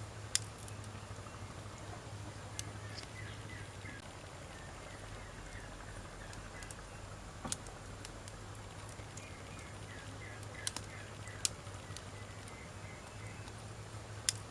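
Wood campfire burning, with about six sharp crackling pops of the logs spread through, the loudest near the start and near the end. Faint chirping and a low steady hum run underneath.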